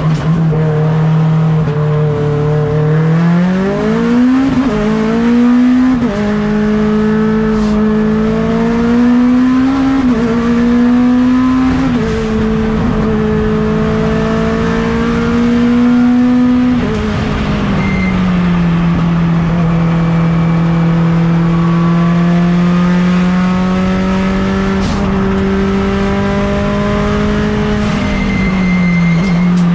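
Mitsubishi Lancer Evolution X's turbocharged 4B11 four-cylinder race engine at full effort, heard onboard. Its pitch climbs and dips with throttle and gear changes, settles to a lower, steadier note about two-thirds through, and drops near the end.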